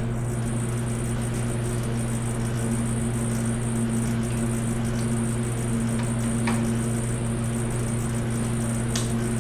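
Steady low electrical hum of the garage background, with a few faint light clicks of engine parts or tools being handled.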